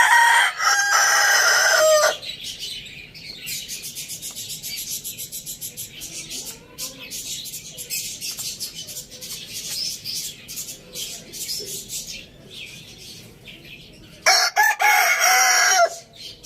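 Rooster crowing twice, one loud crow at the start and another about 14 seconds later. Between the crows comes a quieter, fast, high-pitched chirring.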